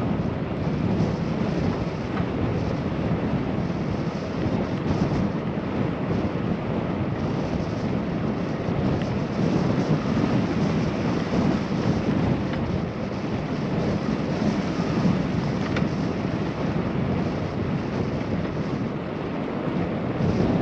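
Steady rush of wind over a GoPro microphone on a moving bicycle, fairly loud and even, with no distinct tones or knocks.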